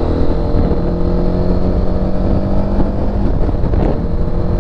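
Motorcycle engine running under way at a fairly steady speed, its pitch creeping slightly higher.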